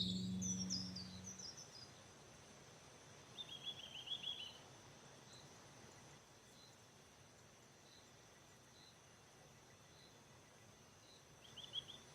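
Cartoon outdoor ambience. A lawnmower's steady hum fades out over the first second and a half. Birds then chirp in short high trills twice, over a faint high chirp that repeats about once a second.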